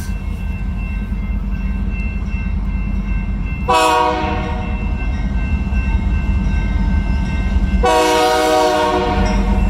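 Freight train led by a GE diesel locomotive, passing with a steady low rumble; its multi-tone air horn sounds a short blast about four seconds in and a longer blast about eight seconds in.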